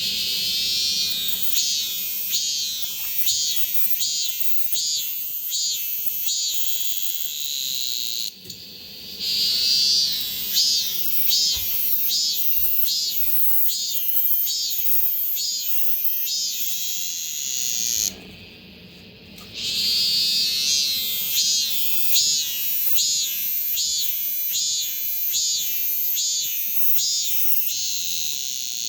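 Korean robust cicadas (Hyalessa fuscata) calling their pulsed "maem-maem" song, repeating at about two pulses a second. The song comes in three bouts, breaking off briefly about 8 seconds in and again for a second or two near 18 seconds.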